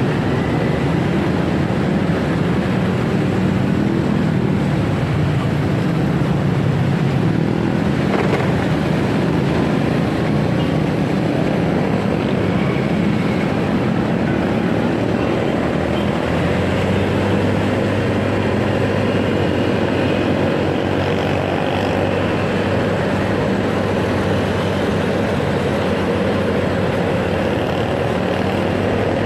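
Motorcycle engine running steadily under way, with wind rush and road noise on the rider's microphone; the engine hum drops to a lower pitch a little past halfway.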